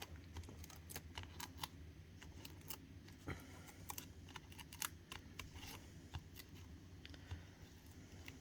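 Faint, irregular light clicks and paper handling: foam adhesive dimensionals being peeled from their backing sheet and pressed onto card stock.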